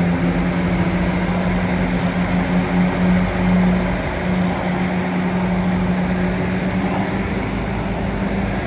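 Bulldozer's diesel engine running steadily with a deep, even hum, swelling slightly about three seconds in.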